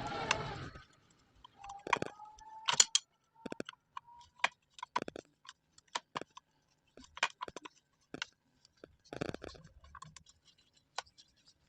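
Scattered metal clicks, taps and scrapes of hand tools and machine parts being handled while reassembling an angle-type cutter, with two brief squeaks about two and four seconds in.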